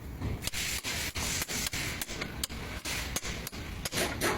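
Repeated irregular clicks, about three a second, over a rubbing, scraping noise from a car's CV drive axle: the noise of a faulty CV axle.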